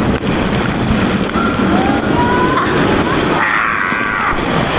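Rushing, sloshing water of a water-park lazy river, with high voices calling out in the background, the loudest call about three and a half seconds in.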